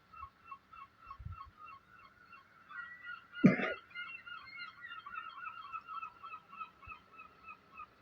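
A steady chorus of short, honking animal calls, repeating fast at about four to five a second. A single sharp knock stands out about three and a half seconds in.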